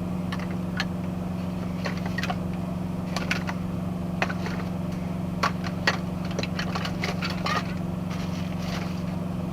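Box truck engine droning steadily while driving, a constant low hum, with scattered short clicks and knocks over it.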